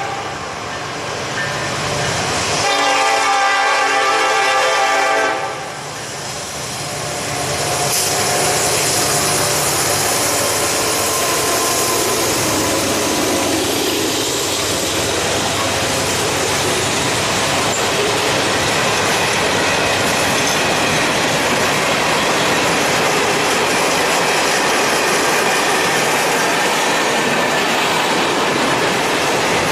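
A diesel locomotive's horn sounds a short blast, then a longer one of about two seconds, several notes together. Then the train rolls past with a steady heavy rumble and clatter of wheels on the rails.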